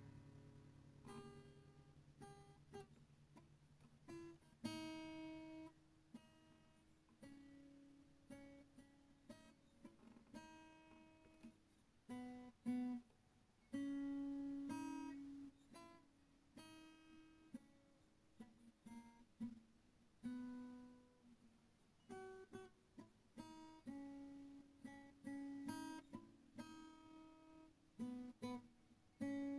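Acoustic guitar music, single plucked notes and light strums that ring and fade.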